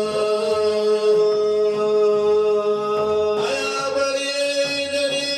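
A man's voice chanting an Arabic devotional song in praise of the Prophet Muhammad. He holds one long note, then moves to a new note about three and a half seconds in.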